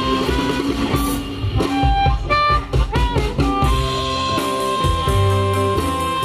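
Electric blues band playing an instrumental phrase on guitars, harmonica, bass guitar and drums. A lead line bends in pitch around the middle, then holds one long high note near the end.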